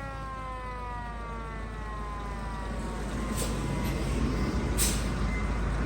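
Fire truck siren winding down, its pitch falling slowly as it fades out over the first couple of seconds, over the truck's engine running. Two short hisses of air come about halfway through and near the end.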